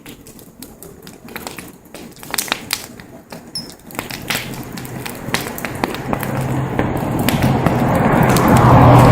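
Wood fire crackling with scattered sharp pops and snaps. From about four seconds a rushing noise with a steady low hum builds and grows louder toward the end.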